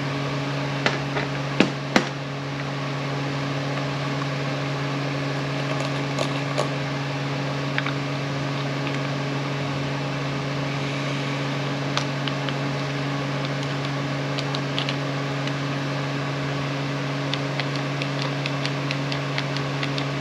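Steady low machine hum in the background, with light clicks and taps of parts being handled while an air impact wrench is put back together. The sharpest clicks come a second or two in, and a quick run of small clicks, about four a second, comes near the end.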